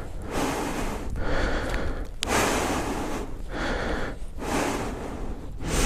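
A person breathing heavily and close to the microphone, a breath sound about once a second.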